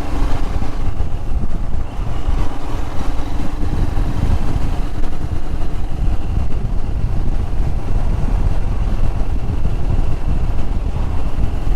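Royal Enfield Himalayan's single-cylinder engine running steadily while the motorcycle rides along, mixed with wind noise on the microphone.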